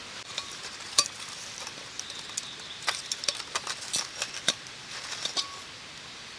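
Small wood fire crackling, with scattered sharp pops, the loudest about a second in, over a faint steady hiss.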